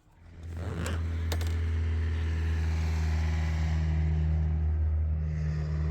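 An engine starts up and settles within about a second into steady, even running, with a couple of sharp clicks as it catches.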